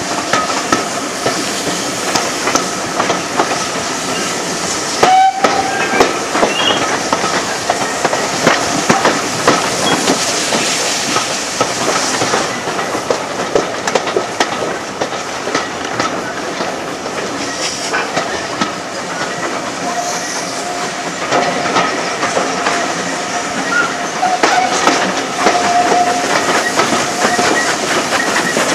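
A train running along the rails, its wheels clicking steadily over the rail joints, with a couple of brief high tones along the way.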